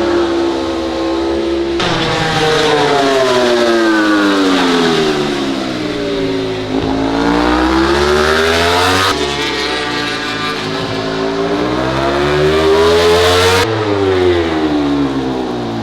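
MotoGP race motorcycle engines at high revs, the pitch falling then rising twice as the bikes go by on the circuit. The tone changes abruptly about two, nine and fourteen seconds in.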